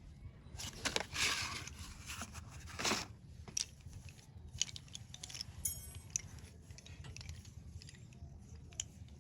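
Slate pencils being scraped and handled: scratchy rasps in the first three seconds, then scattered light clicks and crunches.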